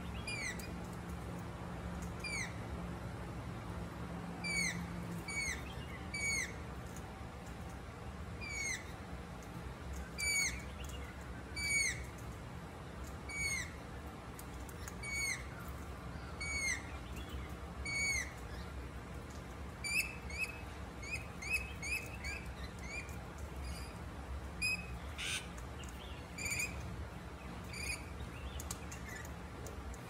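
A bird repeats a short, clear, downslurred call about every second and a half, then switches to a quicker run of shorter calls in the last third, with a single sharp click among them.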